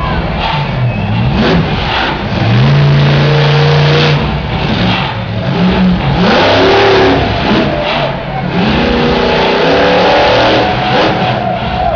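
Monster truck engine revving hard again and again, its pitch climbing, holding and dropping back as the throttle is worked, over a loud steady wash of noise.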